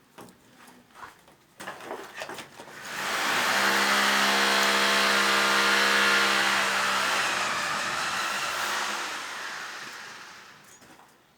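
A small electric power tool motor runs steadily with a hum and hiss, starting about three seconds in and fading away over the last few seconds.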